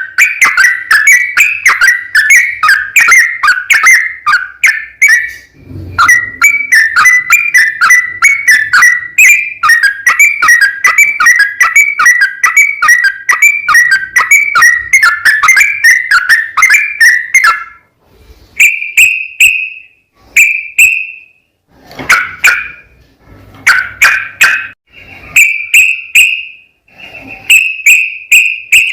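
Yellow-vented bulbul (trucukan) singing a fast, unbroken run of chirpy notes. About two thirds of the way through it breaks into shorter separate phrases with pauses between them.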